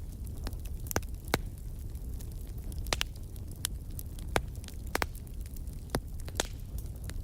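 Wood fire crackling in a fireplace: irregular sharp pops and snaps, about eight in all, over a steady low rumble.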